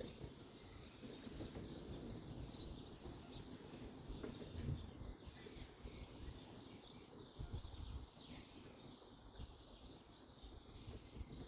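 Faint birdsong in the background with scattered chirps, and a few light knocks.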